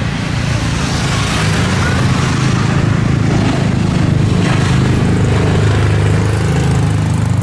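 Loud, steady engine noise: a low, rapidly pulsing rumble under a broad hiss, with no clear rise or fall.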